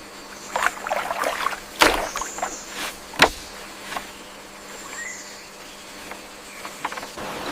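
Bamboo poles knocking and clattering as they are handled on a raft: a string of sharp knocks, two louder ones about two and three seconds in, over a steady low hum.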